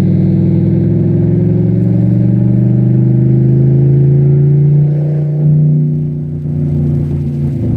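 Cadillac STS-V's supercharged V8 pulling hard, its note rising steadily for about five seconds. About five seconds in the note drops and runs lower and steadier.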